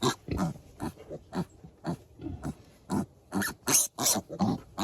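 Six-day-old piglets grunting and squealing, a quick run of short calls about two to three a second that grows louder in the second half.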